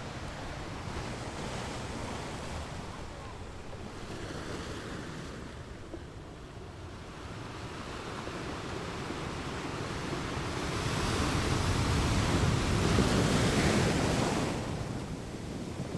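Sea waves washing onto the shore, with wind buffeting the microphone. The surf grows louder past the middle as a larger wave breaks, then falls away shortly before the end.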